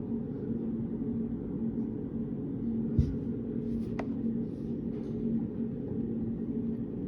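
Steady low room hum with a constant droning tone. A soft thump comes about three seconds in, a small click a second later, and faint light scratching or rustling in between.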